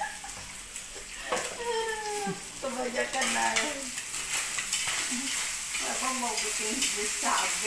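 Food frying in a pan: a steady sizzle that grows louder about three seconds in.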